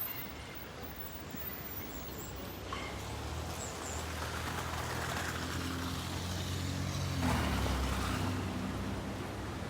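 A car driving past, its engine hum and tyre noise building to a peak about seven to eight seconds in, then easing off.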